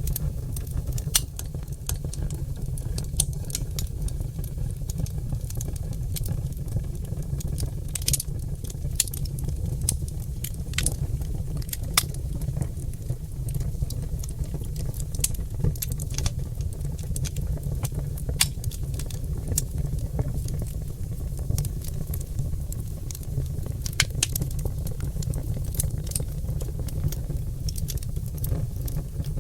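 Oak logs burning in a fireplace, crackling with scattered sharp pops over a steady low rumble.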